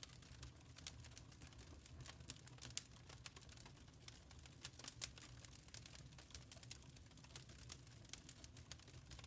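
Wood fire crackling quietly in a fireplace: irregular snaps and pops, a few louder ones, over a faint low rumble.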